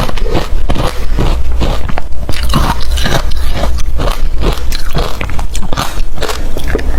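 Refrozen crushed ice being bitten and chewed close to the microphone, a steady run of hard, crunchy crackles several times a second.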